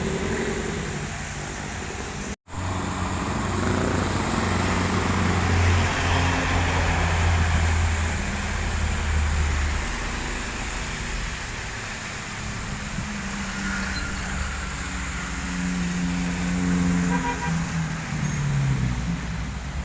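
Heavy trucks' diesel engines running past on a wet road, with a steady hiss of tyres on the wet surface. The loud low engine note is strongest a few seconds in, and a higher, shifting engine note follows near the end. The sound cuts out briefly about two seconds in.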